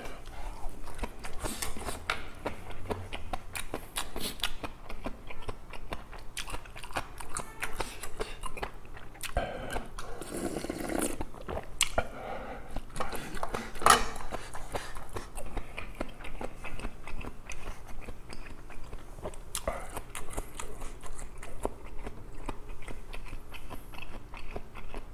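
A person chewing and crunching food close to the microphone, with many small wet clicks and crackles of eating. Utensils clink now and then, with one sharp click about fourteen seconds in.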